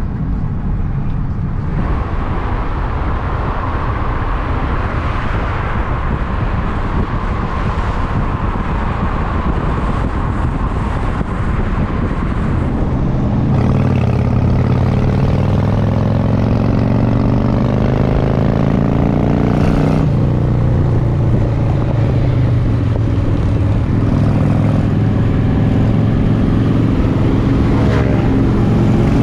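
Wind rumble buffeting a GoPro action camera's microphone while riding, a dense steady low roar. About 13 seconds in it gets louder and a vehicle engine's note comes through, rising in pitch at times.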